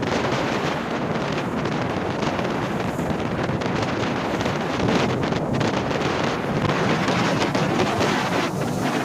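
Strong wind buffeting the microphone over the steady rush of rough sea waves.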